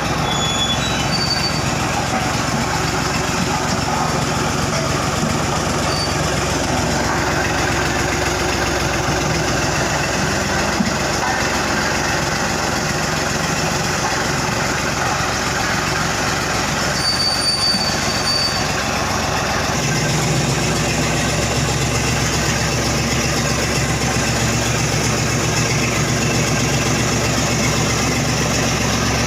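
Heavy diesel road-works machinery running steadily, with metallic squealing and rattling; short high squeals come a little past the middle, and the low engine note grows heavier about two-thirds of the way through.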